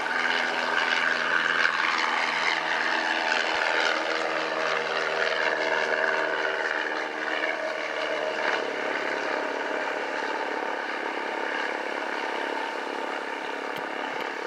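Cessna 172's piston engine and propeller running under power, a steady drone with a multi-toned note that holds throughout.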